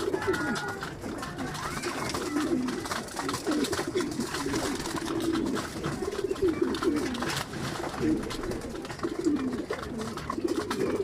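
A flock of domestic pigeons cooing continuously, many overlapping low coos, with scattered light clicks of the birds pecking at feed.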